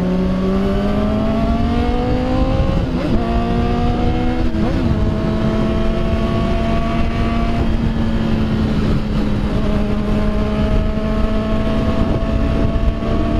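Motorcycle engine running under way, its pitch climbing gradually for the first few seconds and then holding steady, over a constant rumble of wind on the microphone.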